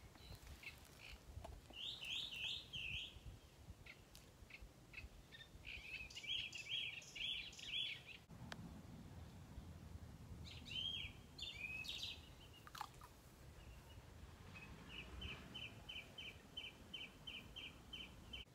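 Songbirds singing in short phrases, ending with a run of evenly repeated notes, about three a second, over a faint low outdoor rumble.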